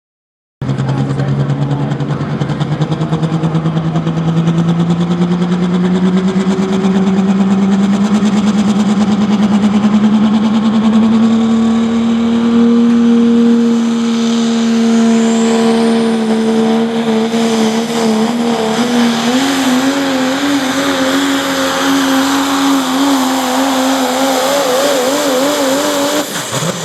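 Super stock pulling tractor's engine running flat out under load while pulling the sled. Its note climbs steadily for about twelve seconds, then wavers up and down through the second half, and falls off just before the end.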